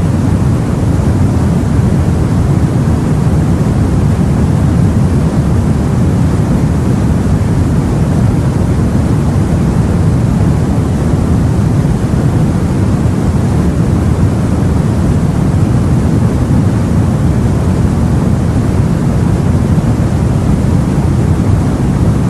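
Steady, deep rushing noise of sea and wind, heavy in the low range, with no distinct swells, breaks or other events.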